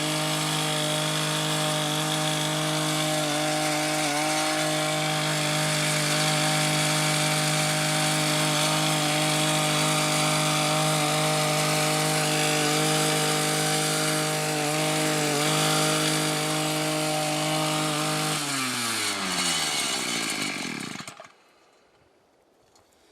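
Harbor Freight Predator gas cultivator's small engine running steadily, its speed dipping briefly a few times. About eighteen seconds in it is shut off, and its note falls and dies away over a couple of seconds.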